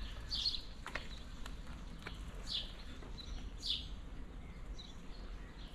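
A songbird chirping: a handful of short, falling chirps spaced irregularly a second or so apart, over a low steady rumble.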